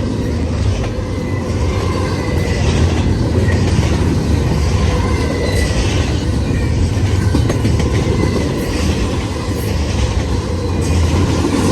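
Freight cars of a CN mixed train rolling past at close range: a steady rumble with the clickety-clack of wheels over rail joints, and a faint, thin squeal coming and going.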